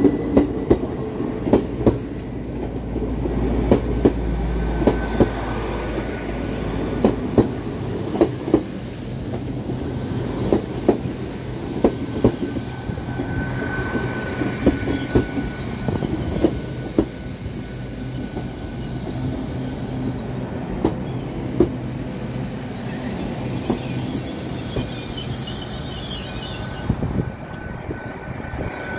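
A Great Western Railway Class 800 train running slowly along the platform, its wheels clicking over rail joints about once a second. It squeals high-pitched in stretches during the second half, and the squeal cuts out near the end.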